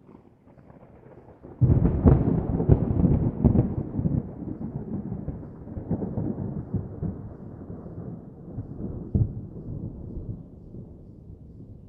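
Thunder: a faint rumble, then a sudden loud crackling crash about a second and a half in that rolls on and slowly fades, with another sharp crack about three-quarters of the way through.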